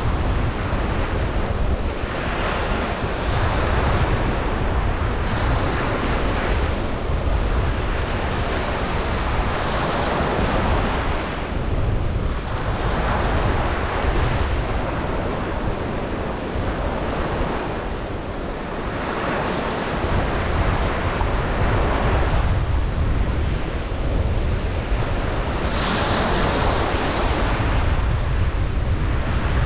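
Ocean surf breaking on a beach: a constant wash of water that swells every few seconds as waves come in, under a low rumble of wind on the microphone.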